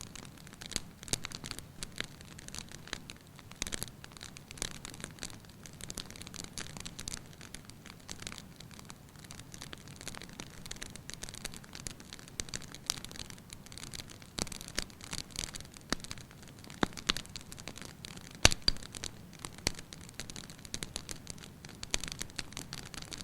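Wood fire crackling in a fireplace: irregular snaps and pops over a soft low rush of flames, with one louder crack late on.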